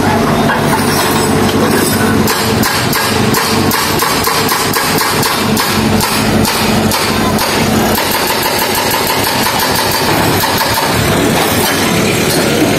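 Engine of heavy road-works equipment running steadily. A rapid, even pounding runs through the middle of the stretch.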